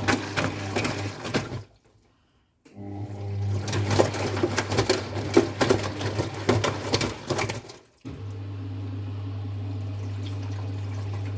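Vestel washing machine running with the door open: a steady hum under water splashing and clattering. The sound drops out for about a second early on and again briefly later, after which only the steady hum remains.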